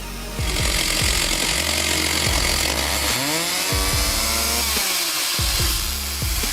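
Chainsaw cutting through wood, its pitch rising once about three seconds in, over background music with a steady bass beat.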